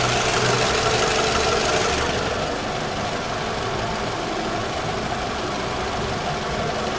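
Toyota Camry four-cylinder engine idling steadily with the hood open, a little quieter after about two seconds.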